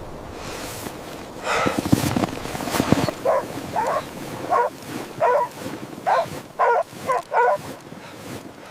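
A dog barking about eight times in short, quick barks, after a second or so of rustling and knocks.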